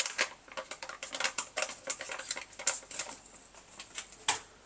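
Rapid, irregular clicking and crackling from black pepper being added to a bowl of raw eggs, stopping shortly before the end.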